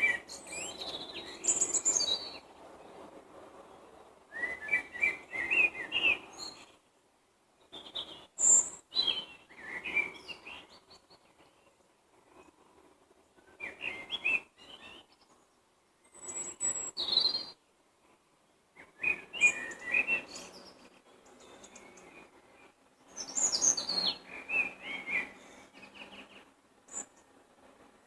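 A songbird singing short, varied, warbling phrases of one to three seconds each, repeated after gaps of a second or two.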